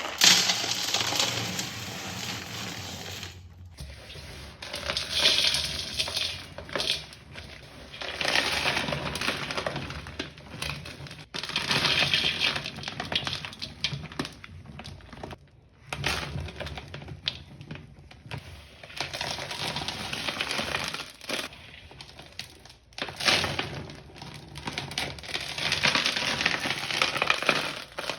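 Crunchy crumbling and crushing of dried powder balls made with Pinalen pine cleaner, in repeated squeezes of a few seconds each with short pauses between.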